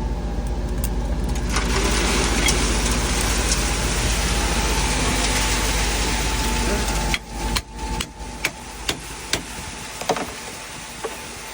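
A truck's diesel engine running steadily under a loud rushing noise. The rush cuts off sharply about seven seconds in, leaving the engine quieter with a few sharp knocks.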